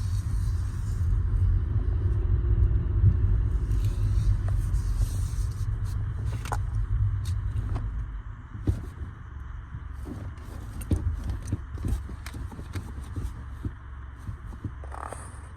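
A low car rumble that drops away about halfway through, followed by scattered light clicks and knocks.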